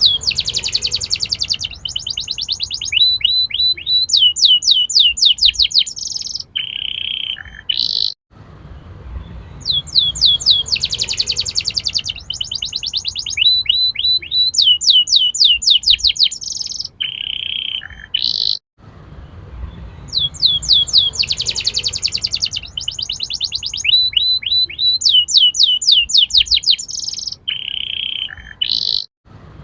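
Canary singing loudly in fast trills, buzzy rolls and rising whistles. The same phrase of about eight seconds repeats three times with brief breaks: a looped lure song for training young canaries to roll and sing.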